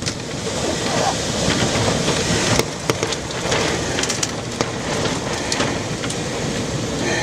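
Storm wind and heavy rain making a dense, steady roar, with scattered knocks and clicks.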